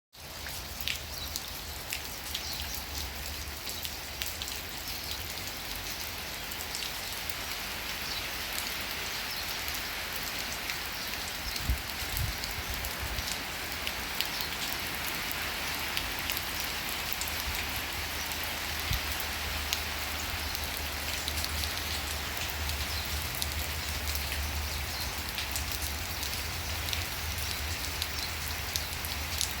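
Steady rain falling, with scattered drops ticking sharply over an even hiss.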